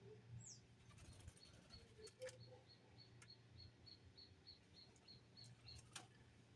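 Small birds chirping faintly: a short high note repeated about three times a second, with a brief falling whistle near the start and a couple of sharp clicks, over a low steady hum.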